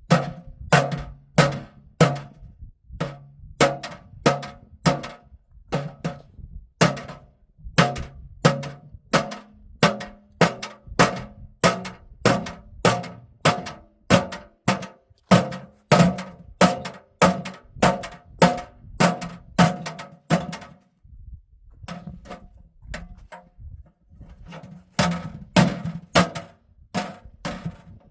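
Repeated hard strikes at about two a second, each ringing briefly with a hollow pitched tone; they stop for a few seconds about three-quarters of the way in, then start again.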